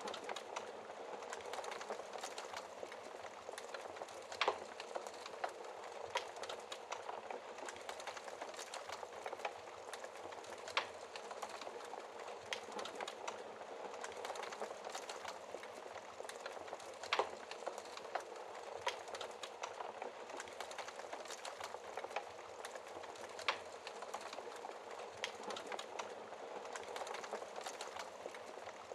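Logs crackling in a wood fireplace, a loud sharp pop every few seconds among many small crackles, over a steady hiss of rain.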